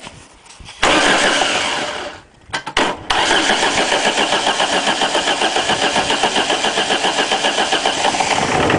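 Ford Escort 1.8 diesel engine being cranked over by its starter motor in two goes: a short burst about a second in, then from about three seconds in a longer, steady run of even compression beats about six a second. It is a cold start after months standing, with fuel only partly bled through, and it struggles to catch.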